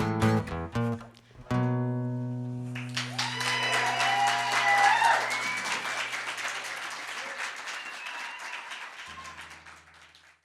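Guitar playing the closing chords of a song, with a final chord struck about a second and a half in and left to ring. Audience applause breaks out about three seconds in and dies away toward the end.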